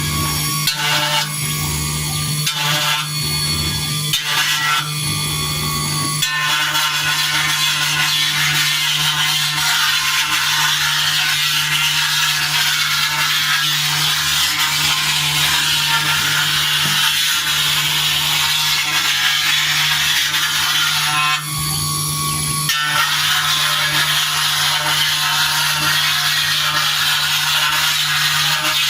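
CNC engraving machine cutting a design into a silver plate: the spindle's steady hum under a high scratching hiss from the cutter. The cutting comes in short strokes at first, then runs continuously, and breaks off briefly about three-quarters of the way through while the hum goes on.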